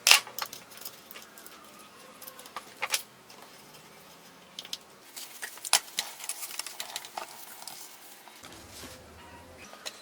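Scattered sharp clicks and taps of small metal parts and hand tools being handled, a dozen or so irregular knocks with the loudest near the start, just before three seconds and just before six seconds.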